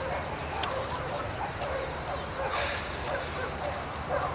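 Outdoor animal sounds: a steady, high-pitched insect trill, with short repeated calls from animals such as poultry, and a brief rustling hiss about two and a half seconds in.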